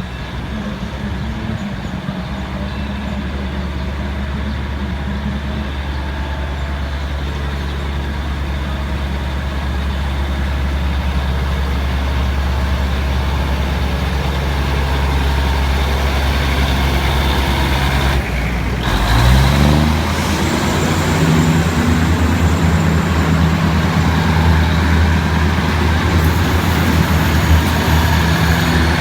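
Tokyu NKF diesel railcar engines running with a steady low hum that slowly grows louder. About two-thirds of the way through, the sound dips briefly, then the engine pitch rises and holds higher.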